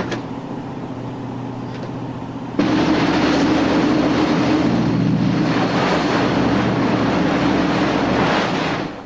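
A patrol boat's engines running at a steady drone. About two and a half seconds in, the sound jumps suddenly louder, with a heavy rushing noise on top, as of the boat under way at speed, then fades out just before the end.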